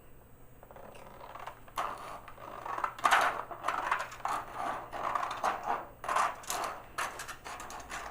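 Irregular metallic clicks, clinks and scrapes of a wrench and hold-down hardware as the back clamp of a milling-machine 4th axis is loosened and taken off. The quick run of clicks starts about two seconds in and goes on to the end.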